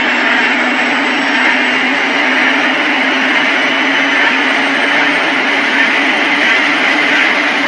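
Helicopter turbine engine and rotor running steadily at close range, a dense loud rush with a thin high turbine whine that rises slightly in pitch.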